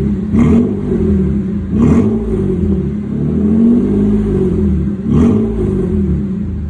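Mitsubishi Pajero IV's 3.8-litre V6 revved repeatedly through an exhaust fitted with a controllable valve, the engine note rising and falling about four times.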